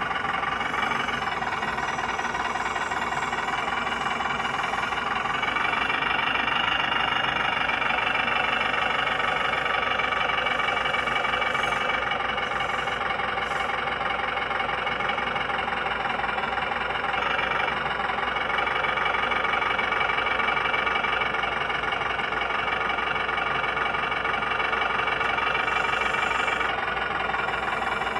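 1/14-scale RC truck running steadily, a continuous engine-like hum that shifts slightly in pitch a few times.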